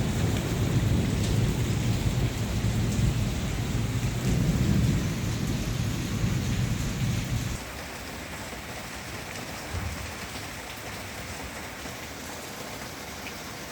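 Heavy rain pouring down, with a deep low rumble over it for the first half; about halfway through the rumble stops abruptly and a quieter, steady rain continues.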